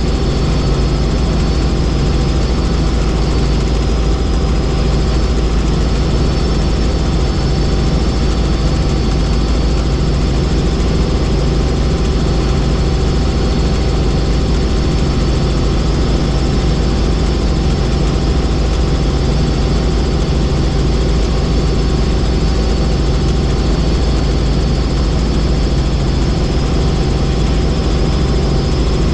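Helicopter in flight: a steady, heavy drone of rotor and turbine engine, with a thin high whine above it.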